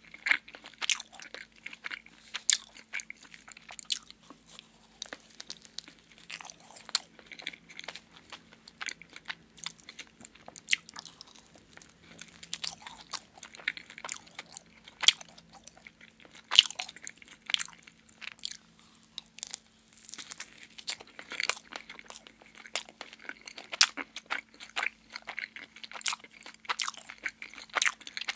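Close-miked chewing and biting of a glazed donut: irregular soft crunches and sharp mouth clicks, coming in quick clusters with short pauses between them.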